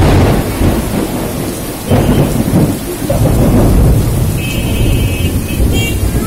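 Heavy rain pouring onto a flooded street, with a loud low rumble that sets in suddenly and surges again about two seconds in. A few short high-pitched rings come through the rain near the middle and towards the end.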